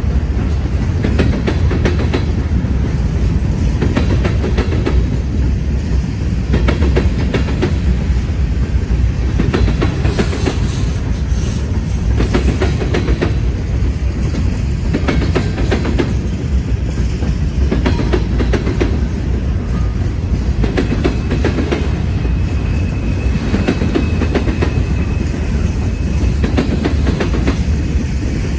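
Norfolk Southern freight train cars rolling past close by: a steady heavy rumble with a run of clicks as the wheels pass over the rail joints.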